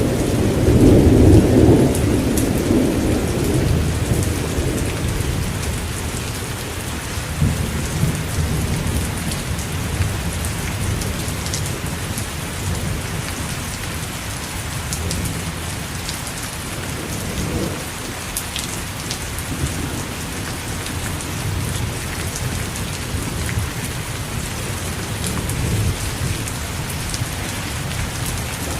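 Steady rain with a dense patter of drops and low rolling thunder. The rumble is loudest in the first few seconds, then fades to a softer rumble that swells and ebbs.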